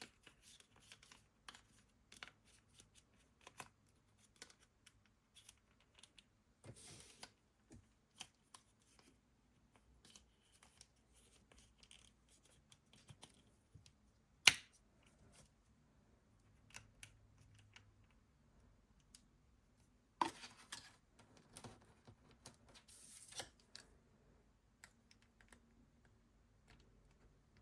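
Hands opening and handling blind-box toy packaging, with scattered light clicks, taps and scratchy rustles. A sharp click comes about halfway through, and there are a few short louder rustling or tearing sounds later on.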